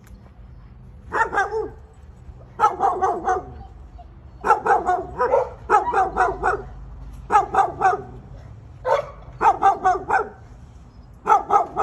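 A dog barking in quick bursts of several sharp barks each, repeated over and over from about a second in.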